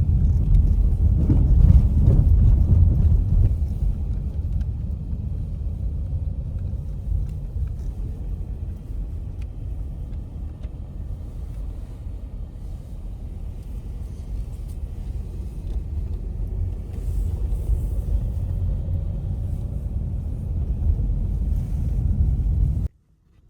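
Steady low rumble, loudest in the first few seconds, easing off, then building again before it cuts off abruptly near the end.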